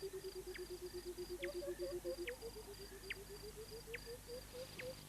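Faint savanna wildlife ambience. Insects chirp in a rapid, even rhythm, a low call repeats several times a second and rises in pitch about halfway through, and short falling whistle-like calls come about once a second.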